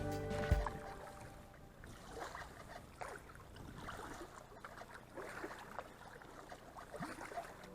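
Water splashing and trickling around a paddled kayak: small irregular splashes and drips as the paddle blades dip in and lift out, over a soft wash of moving water.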